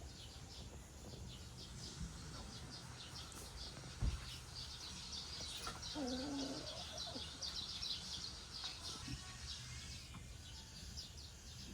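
Birds chirping in a rapid run of short, high calls, with a single soft knock about four seconds in.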